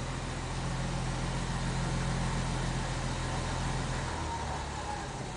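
Unrebuilt 214 cubic inch Green Diamond engine of a 1947 International Harvester KB-1 panel truck idling steadily, heard from the cab. About four seconds in, its idle note shifts lower.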